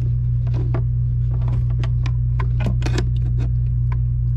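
Irregular small metallic clicks and taps of hand tools working on nuts and bolts, over a steady low hum.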